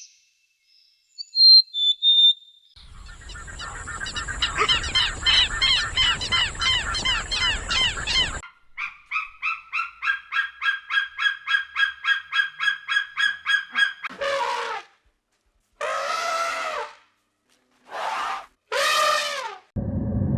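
A run of animal calls: a few high chirps, then a few seconds of rapid, crowded calling. A steady pulsing call follows at about three to four pulses a second, then four separate drawn-out calls that rise and fall in pitch, honk-like.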